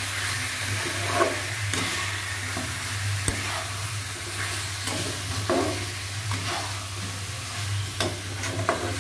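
Spice-coated chicken pieces sizzling in oil as they are stirred and turned in a nonstick wok with a metal spatula. The spatula scrapes and knocks against the pan now and then. This is the chicken being fried down with ground spices over low-to-medium heat, and a steady low hum runs underneath.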